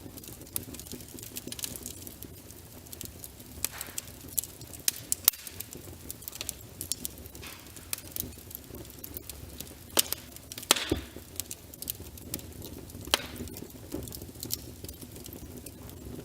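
Logs burning in a fireplace, crackling with frequent sharp pops over a low steady rumble, with a louder cluster of pops about ten seconds in.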